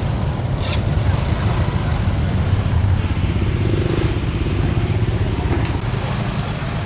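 Motorbike engines running close by over a steady low rumble of street traffic in a busy market.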